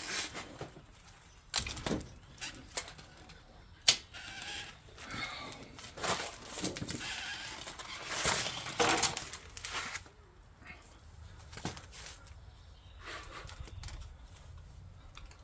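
Handling noises from working on a new e-bike and its packaging: scattered clicks, knocks and rustling, with a sharp knock about four seconds in and longer scraping, rustling stretches between about six and nine seconds.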